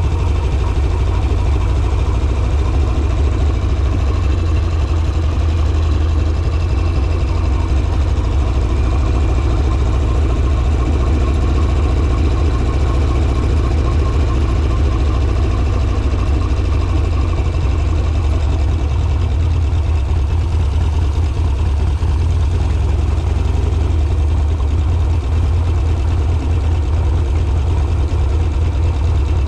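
Harley-Davidson Sportster's air-cooled V-twin engine running steadily at low revs.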